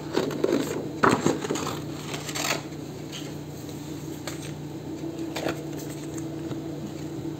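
Paper and small craft pieces handled on a desk: a few short clicks and rustles over a steady low hum.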